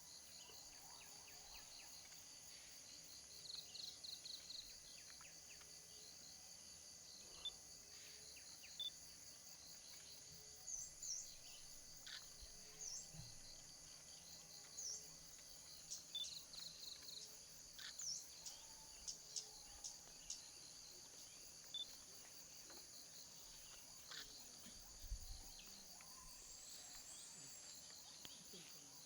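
Faint, steady chorus of crickets and other insects, high-pitched and unbroken, with scattered short bird chirps and a few small clicks over it.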